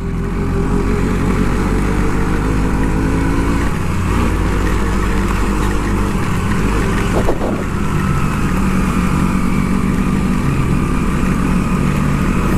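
Motorcycle engine running under way, its pitch shifting as the speed changes, over a steady hiss of wind and road noise.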